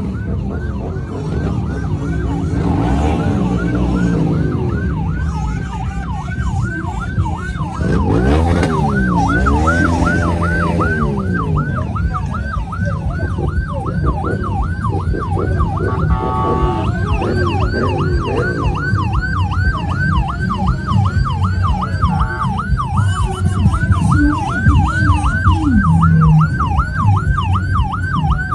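An electronic siren yelping fast, about three rising-and-falling sweeps a second, over the low running of motor engines, with engine revs about eight seconds in. A short steady tone interrupts the siren at about sixteen seconds.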